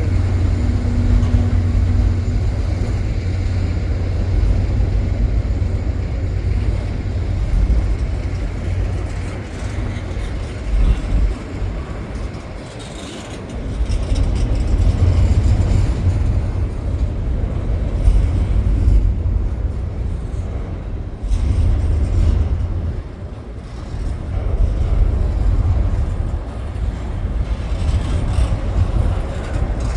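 CN double-stack container freight train rolling past: a steady low rumble of cars on the rails that eases briefly twice.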